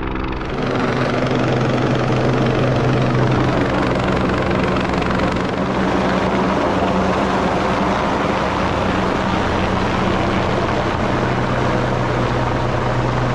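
Military helicopter close overhead: a loud, steady rotor and engine drone with a strong low hum. It grows louder about half a second in and then holds level.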